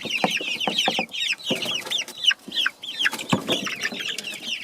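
A brood of young chicks peeping nonstop, many overlapping high, falling peeps, with scattered knocks and scratches. It is the noisy fuss the young birds raise when a person comes into their coop.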